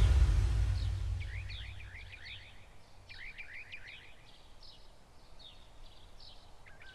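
The tail of a whoosh sound effect dies away over the first second or so, then faint bird chirping follows in quick runs of short chirps, over a low steady hum.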